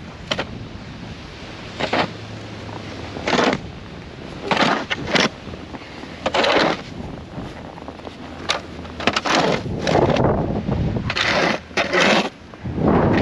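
Blizzard wind buffeting the microphone with a low rumble, broken by about a dozen short, sharp scraping or crunching noises at uneven intervals, several in quick pairs.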